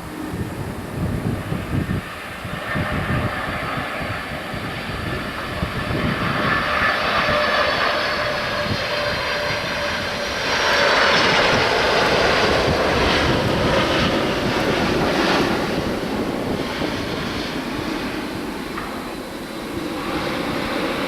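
Jet airliner engines passing close by: a steady rush with a high whine that builds to its loudest about halfway through, then slowly fades.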